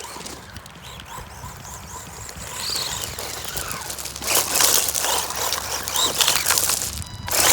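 WLtoys 124018 RC car, fitted with the stock 144001 motor, driving at speed: an electric motor whine that rises and falls, with tyre and ground noise. It is quiet for the first two seconds and grows louder in surges over the second half.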